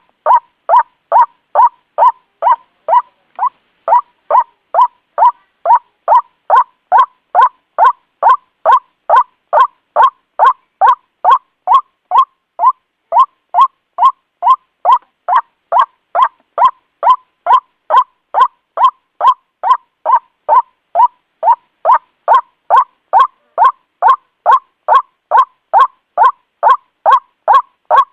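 White-breasted waterhen calling: a loud, even run of short harsh "kwak" notes at about two a second, as used for a bird-trapping lure call.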